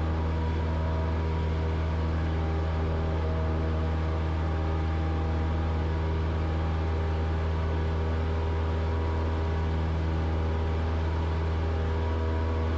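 Cessna 172's engine and propeller droning steadily at climb power, heard in the cabin, with an even low hum and steady overtones.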